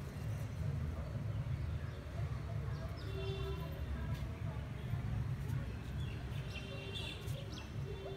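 Outdoor ambience: a steady low rumble, with short high bird chirps about three seconds in and again about seven seconds in.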